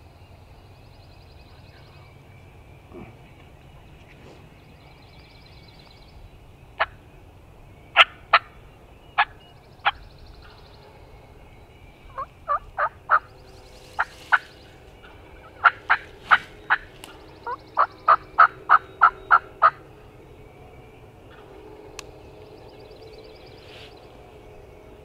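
Loud, close turkey clucks and yelps: a few single sharp notes, then runs of yelps, the longest about a dozen notes in four seconds. Faint high bird trills repeat in the background.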